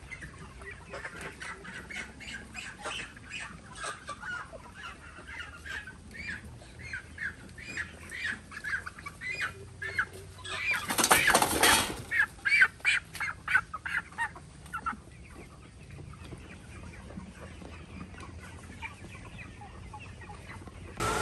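Animal calls: a run of short, repeated calls that come faster and louder toward the middle, with a loud harsh burst about eleven seconds in, then dying away to a quiet background.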